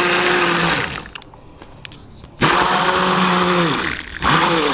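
Stick blender pulsed in soap batter: the motor runs and winds down about a second in, starts again for about a second and a half, then gives one more short burst near the end, each run rising in pitch as it spins up and falling as it stops.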